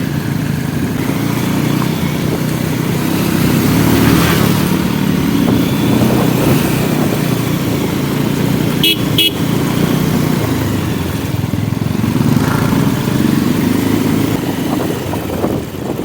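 Motorcycle engine running steadily while riding on the road. A vehicle horn toots twice in quick succession about nine seconds in.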